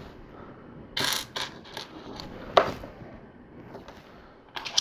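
LEGO pieces being handled: a short rustle about a second in, then a few small plastic clicks, the sharpest about halfway through.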